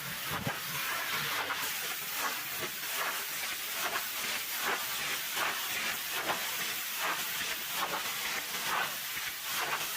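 High-pressure washer spray blasting water against a truck: a steady hiss that swells and eases irregularly, about once or twice a second.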